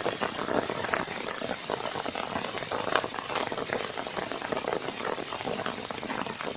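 Heavy rain pattering steadily on the shelter roof, with an insect's continuous high-pitched trill over it that drops out briefly about a second in.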